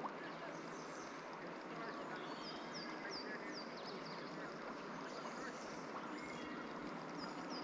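Steady rush of flowing river water, with a bird giving a quick run of short, high, falling chirps around the middle and a few more near the end.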